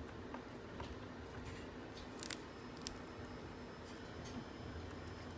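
Faint, scattered light clicks and taps over a steady low hum, with a quick double click about two seconds in and a single sharper click near three seconds.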